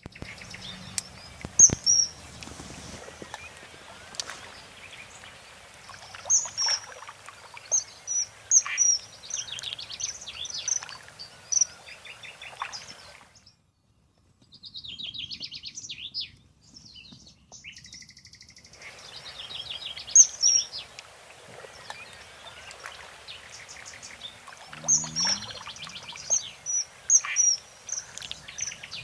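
Wild birds calling and singing: repeated short, high, sharp chirps and quick trills over a faint outdoor hiss. There is a brief drop to near silence midway, and a short low call near the end.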